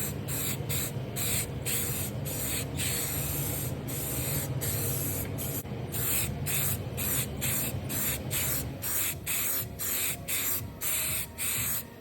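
Primer being sprayed onto a truck cab roof in short, even bursts of hiss, about two a second, as a coat is built up.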